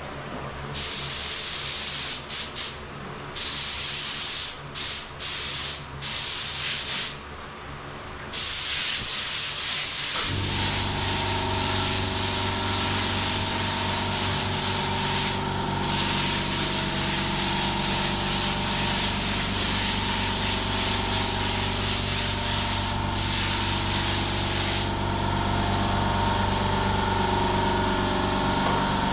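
Paint spray hissing in short on-off bursts of a second or two, then a long steady spray pass. About ten seconds in, a motor starts and runs with a steady hum, an air compressor kicking in.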